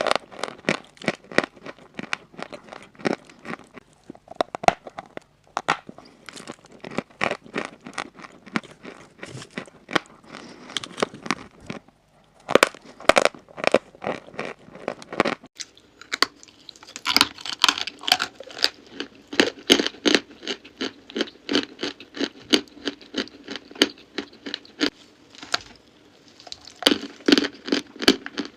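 Close-miked crunching and crackling of pressed chalk pieces, a rapid stream of dry crunches with a couple of brief pauses. About halfway through the crunches turn brighter and denser.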